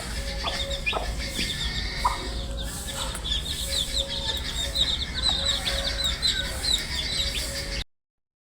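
A crowd of baby chicks peeping, a dense run of short, high cheeps over a steady low hum. The sound cuts out abruptly near the end for about half a second.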